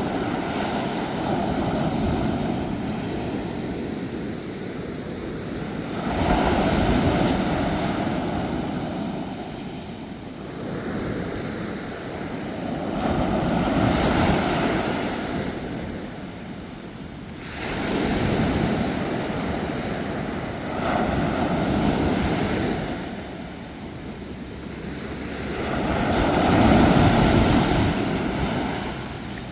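Sea waves breaking and washing up the shore, each surge swelling and falling away every few seconds.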